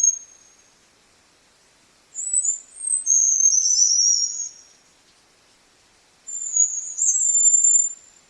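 Sri Lanka whistling thrush calling: thin, very high-pitched whistled phrases with slurred notes, each about two seconds long with silent gaps between them. The first phrase trails off about half a second in, and two more follow.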